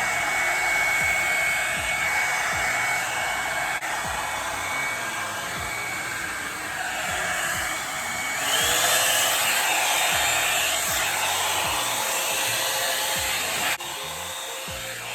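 Revlon One-Step hair dryer brush blowing steadily, a rush of air with a whine; about eight seconds in the whine steps up in pitch and it gets a little louder.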